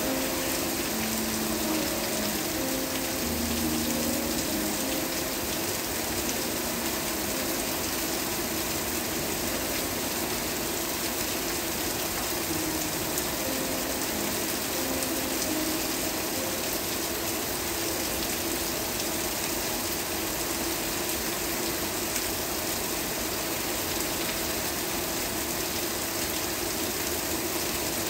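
Steady rain, an even hiss with no let-up. Faint, soft held musical notes sound underneath it, changing slowly.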